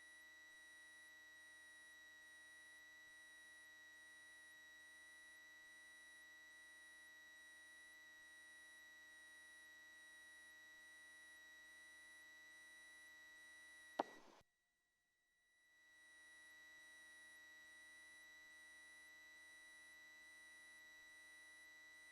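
Near silence: only a faint, steady electronic whine on the audio line, a high tone with overtones. About 14 seconds in there is a sharp click, the line goes dead for about a second, and then the whine fades back in.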